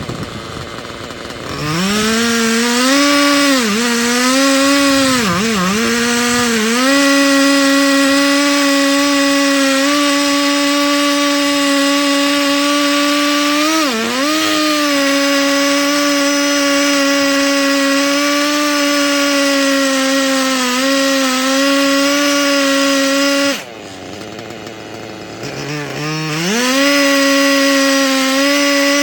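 Husqvarna 3120 XP two-stroke chainsaw on a chainsaw mill ripping an oak log into slabs. It revs from idle to full throttle and holds a steady high pitch under load, with brief sags as the cut bogs. Near the end it drops to idle for a few seconds, then revs back up.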